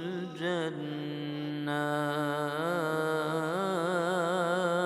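Unaccompanied Arabic ibtihal: a male chanter holds a long, ornamented melismatic vowel with wavering pitch, over a steady low drone.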